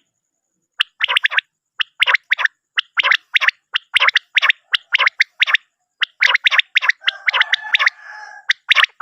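Common quail calling, short sharp three-note phrases repeated about once a second. A fainter rasping sound runs under the calls near the end.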